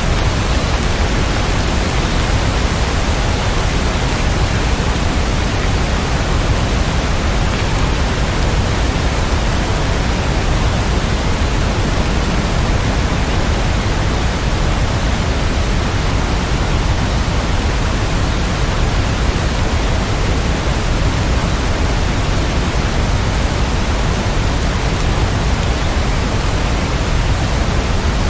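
Steady rain, a dense, even hiss with no single drops or thunder standing out.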